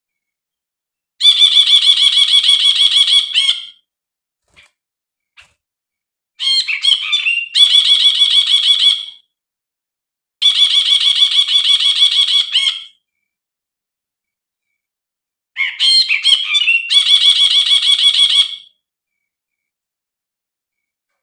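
Recorded brinji (bulbul) song: four phrases of rapid, repeated chattering notes, each two to three seconds long, with silent gaps between them and another phrase starting at the end. It is a lure song ('pancingan') meant to get a captive brinji that has stopped singing to sing again.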